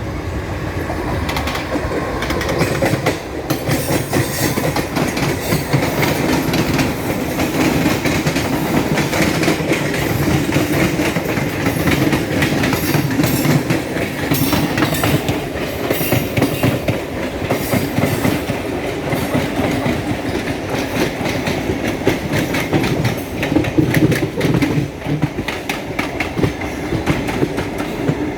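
Electric multiple unit (EMU) suburban local train running on the rails, its wheels clattering steadily over the rail joints.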